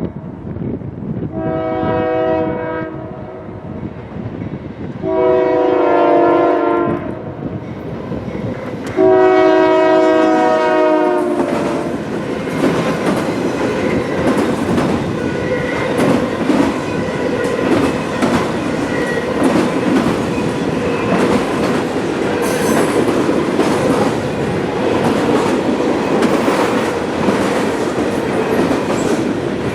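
Freight train's diesel locomotive horn sounding three long blasts, each a chord of several notes. Then the train passes close by, with the locomotive running and wheels clattering over the rail joints.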